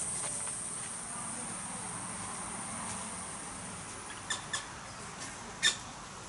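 A steady high insect drone, fading as it goes, with three short high bird chirps about four to six seconds in, the last the loudest.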